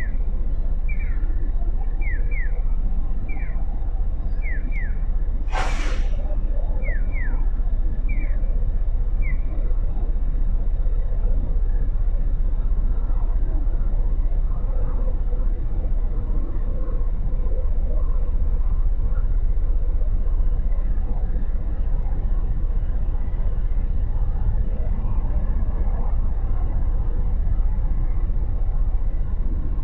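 Motorcycle riding in city traffic: a steady low rumble of engine and wind, with about a half-second hiss around six seconds in. For the first ten seconds, a run of short, high, falling chirps repeats about once or twice a second.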